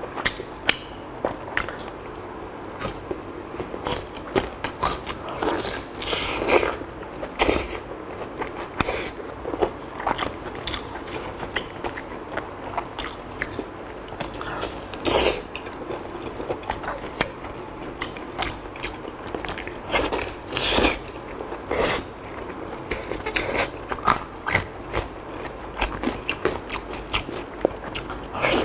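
Close-miked biting and chewing of thick, glazed braised fatty pork belly: irregular smacking mouth sounds, with a few louder bites about a quarter and about two-thirds of the way through.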